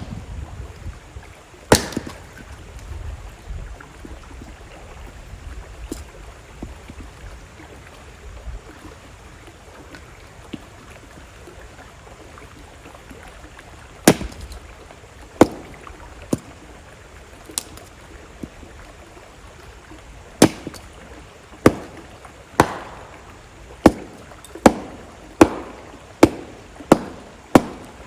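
Campfire crackling, with sharp pops and snaps from the burning wood at irregular moments, coming more often in the last several seconds, over the steady rush of a river.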